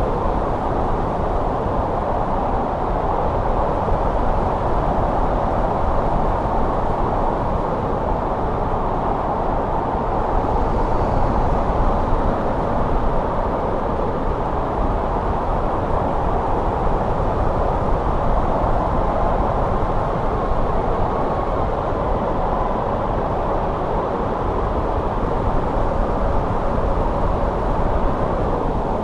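Steady winter wind blowing, a dense low rushing noise that swells and eases gently without gusting hard.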